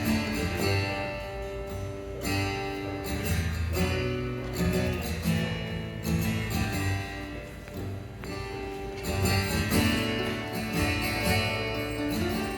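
Acoustic guitar strummed and picked through a song's instrumental introduction, chords changing every second or so in a steady rhythm.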